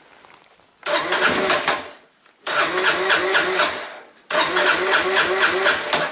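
2015 Kawasaki KLR650's single-cylinder engine turned over by its electric starter three times in short bursts, with a rhythmic chug of compression strokes, not catching. It won't start because the split vacuum line to the petcock leaves the fuel shut off.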